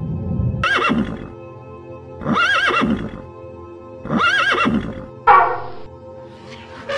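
Horse neighing three times, each whinny a short wavering call under a second long, over steady background music. A sudden, louder rough burst follows about five seconds in.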